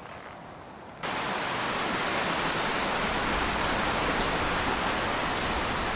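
Steady rushing noise of strong wind through the trees, starting suddenly about a second in.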